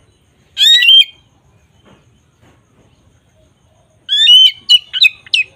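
A bird calling twice: a short rising call about half a second in, then a longer run of quick, choppy calls near the end.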